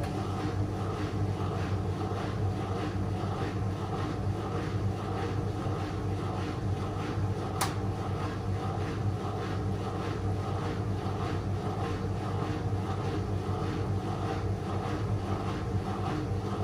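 Whirlpool FL 243-500 front-loading washing machine running, its motor humming steadily as the drum turns, with faint regular pulses from the rotation. A single sharp click sounds about seven and a half seconds in.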